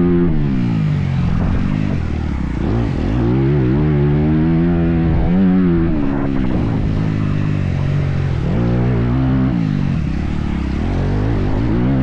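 Motocross dirt bike engine revving up and down as it is ridden around the track, its pitch climbing and dropping several times with throttle and gear changes.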